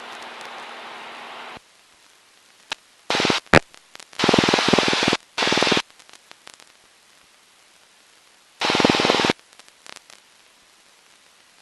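Aircraft intercom audio: short blocks of hissing noise that switch on and off sharply, with near silence between them. The voice-activated squelch opens and shuts on the headset microphones, briefly letting cabin engine and wind noise through.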